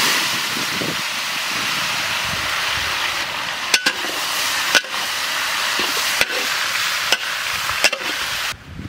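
Sliced tomatoes sizzling loudly as they go into hot tempered oil in a metal wok, the start of frying a tomato chutney. A metal spatula knocks against the pan several times as they are stirred, and the sizzle stops near the end.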